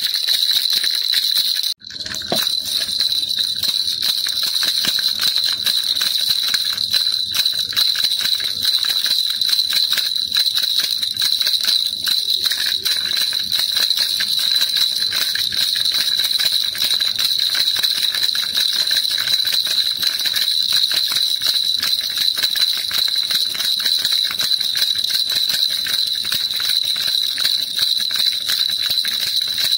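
Baby rattle shaken continuously, a dense, steady jingling with a bright metallic ring, broken once by a brief gap about two seconds in.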